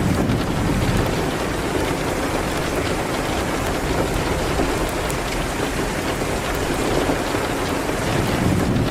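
Steady rain hitting a window: an even hiss with a few faint scattered ticks.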